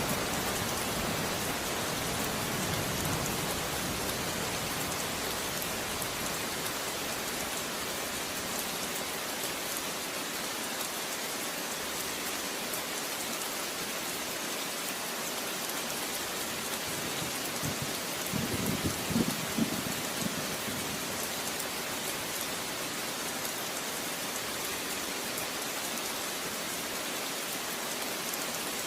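Steady rain falling, an even hiss of drops on surfaces. A low rumble of distant thunder fades out at the start, and another brief low rumble comes about two-thirds of the way through.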